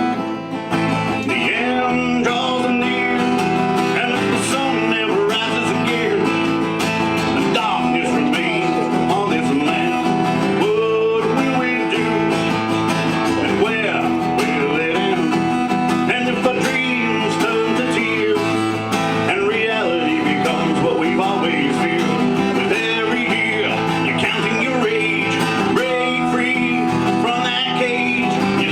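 A song played live on acoustic guitar, with a steady run of strummed and picked notes and a melody line moving over it.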